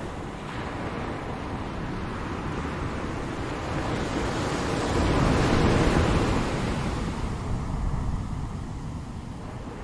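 Ocean surf: a continuous wash of waves that swells to its loudest about halfway through as a wave breaks, then falls away.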